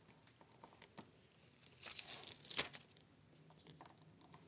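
Faint crinkling and tearing of plastic PE adhesive tape being handled and peeled, in a short cluster of scratchy noises about two seconds in that ends in a sharp snap.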